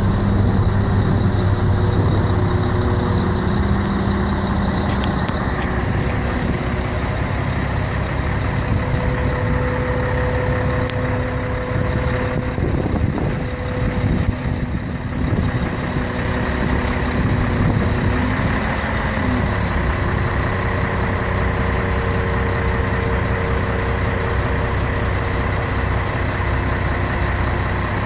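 Scania truck's diesel engine running steadily, its speed changing a few times.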